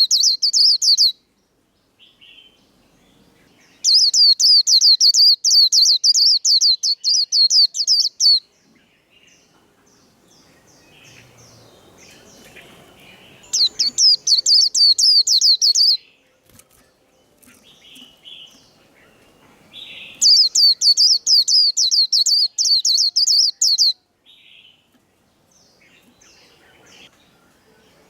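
White-eye (vành khuyên) singing the fast 'líu' competition song: loud bursts of very rapid, high, repeated trilled notes lasting two to four seconds each, four times, with soft scattered calls in the gaps.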